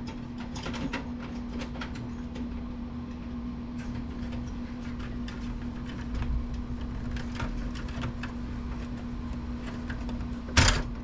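Light clicks and scrapes of hands working parts loose from a desktop computer case, over a steady low hum, with one sharp knock near the end.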